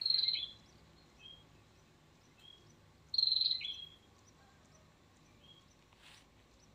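Birds chirping: a loud burst of high chirps at the start and again about three seconds in, with scattered softer short chirps between them.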